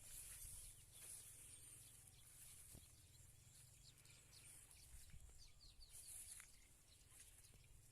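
Near silence with faint field ambience: a steady high-pitched hiss and a few short, quick bird chirps around the middle.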